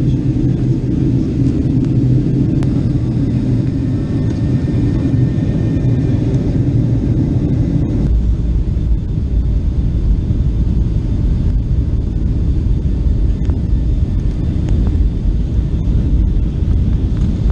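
Boeing 757 cabin noise during landing: a loud, steady rumble of the airframe and engines. About eight seconds in, it shifts abruptly to a deeper rumble.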